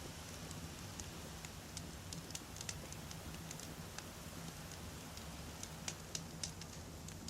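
Wood campfire burning: a steady low rumble of flame with frequent sharp, irregular crackles and pops from the burning logs.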